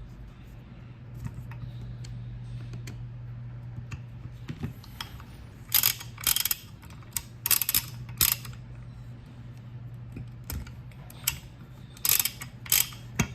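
Torque wrench ratchet head being worked, giving several short bursts of rapid clicking, mostly in pairs, in the second half. A steady low hum runs underneath.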